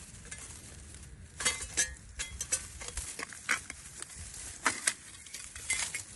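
Irregular metallic clicks, clinks and scrapes from handling the water main's shut-off valve as it is turned off. The clicks start about a second and a half in and come in an uneven run.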